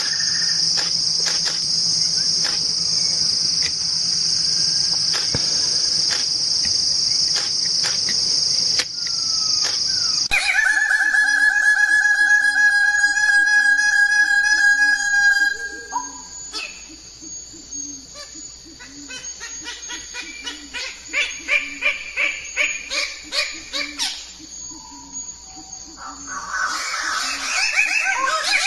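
Steady high-pitched insect drone, like crickets, for about the first ten seconds, then a sudden change to a steady high whistling tone and, later, a series of rhythmic repeated calls, like birds.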